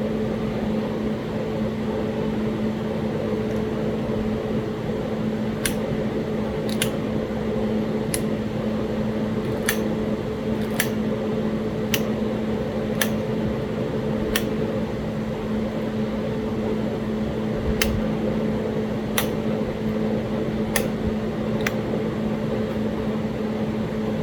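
Sharp, short clicks of stone being worked, a dozen of them from about six seconds in at gaps of roughly a second with a pause midway, as a Talahata quartzite biface is flaked. A steady hum like a fan or air conditioner runs underneath throughout.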